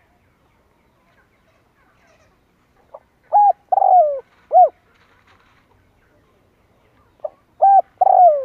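Spotted dove cooing, twice. Each call is a short opening note followed by a few coos, one longer and falling in pitch. The first call comes about three seconds in and the second about seven seconds in.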